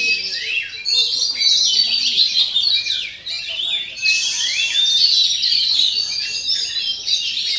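Oriental magpie-robin (kacer) singing a fast, unbroken song of varied high whistles and chirps, with a short pause about three seconds in.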